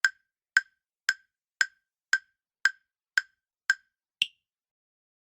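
Countdown timer sound effect ticking about twice a second, eight even ticks followed by one higher-pitched final tick about four seconds in.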